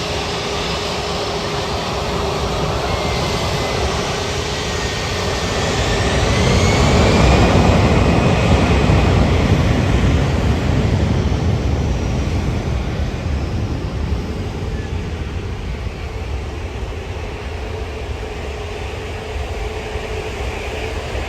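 Jet airliner passing close by: the engine noise builds to its loudest about seven to ten seconds in, then slowly fades, with a high whine that glides in pitch as it goes by.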